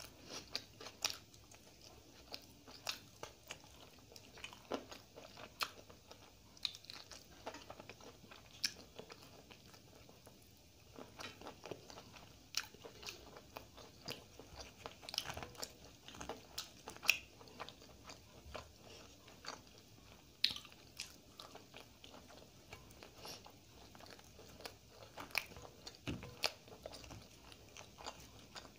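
Close-miked eating of roti and chicken curry by hand: chewing with many short, wet mouth clicks and smacks coming irregularly throughout.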